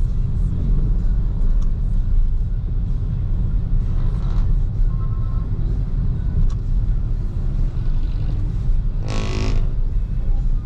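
Steady low road rumble of a BYD Seagull electric car driving in city traffic, with no engine note. About nine seconds in, a vehicle horn gives one short honk.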